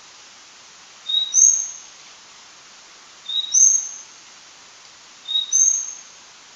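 Large-billed leaf warbler calling: a short two-note whistle, a lower note followed at once by a higher one, given three times about two seconds apart.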